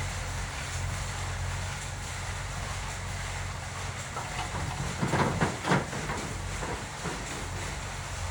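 Diesel engine idling steadily with a low hum, with a short cluster of loud knocks about five seconds in.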